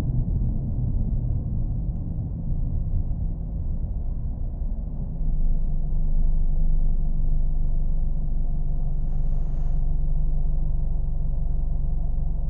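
Car engine running with a steady low rumble. About five seconds in it gets louder and settles into a steadier hum.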